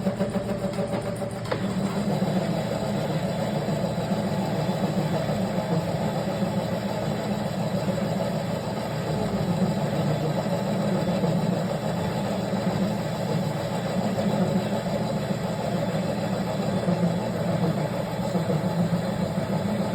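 A machine running steadily with an even, low drone.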